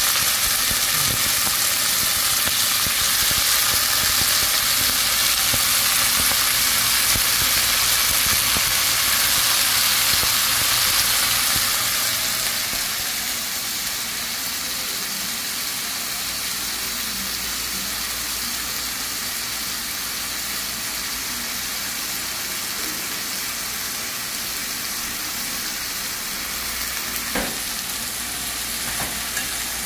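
Bodi beans with onion and garlic frying dry in an aluminium pot, a steady sizzle that gets quieter about twelve seconds in. Near the end a spoon knocks against the pot as the beans are stirred.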